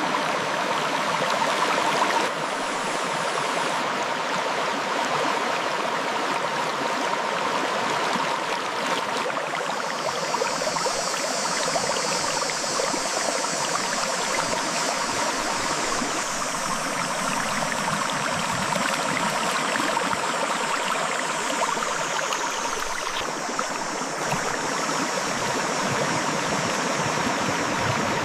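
River water flowing over rocks: a steady rushing, gurgling stream. From about ten seconds in to about twenty-three seconds a brighter, higher hiss is added on top.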